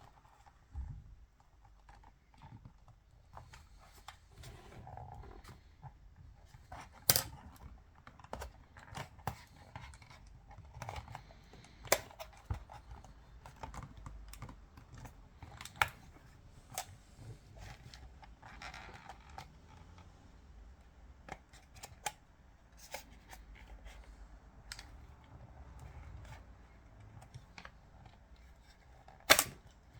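Clicks, taps and light scrapes of small plastic and metal parts being handled while a Canon EOS 5D camera body is taken apart, with a few sharp clicks standing out, the loudest about seven seconds in and again near the end.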